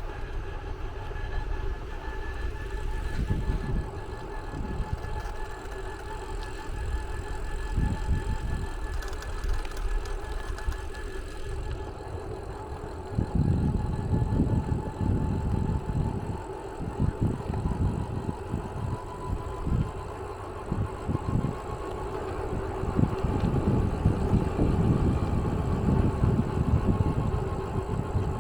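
A vehicle running: an uneven low rumble, busier from about halfway through, with a faint steady whine over it.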